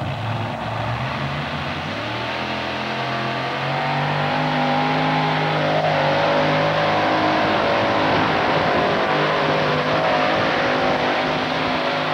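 Modified pulling tractor's engines running hard under load during a pull, the pitch climbing over the first few seconds and then holding high.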